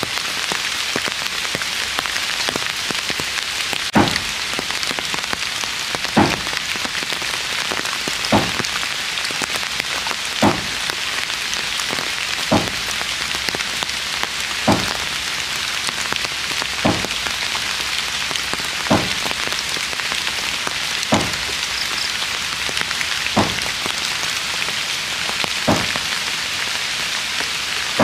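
Steady rain falling, with a sharp tap repeating at an even pace about every two seconds.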